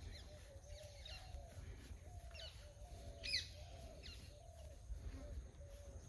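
Wild birds calling in mangrove forest: a quiet series of short, low-pitched notes repeated about twice a second, over which higher whistles slide downward now and then, the loudest a little over three seconds in.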